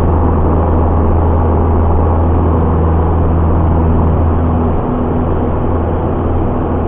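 Piper Warrior's four-cylinder Lycoming engine and propeller droning steadily in flight, easing slightly about five seconds in.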